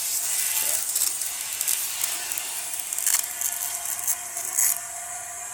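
Water spraying from a pressure-washer wand at plain house pressure, with the washer's motor off, hissing against a rusted steel body panel as it is rinsed; the spray stops near the end.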